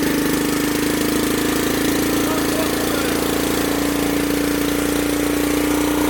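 Small pull-start generator engine running steadily under an electrical load, a constant even hum with no change in speed.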